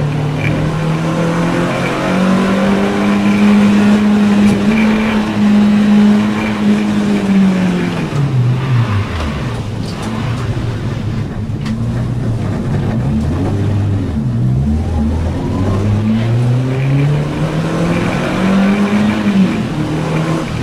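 Renault Clio 2 RS race car's four-cylinder engine heard from inside the cabin at track speed. It holds high revs for several seconds, then the revs fall steeply about eight seconds in and stay low with short steps, climb again and drop just before the end.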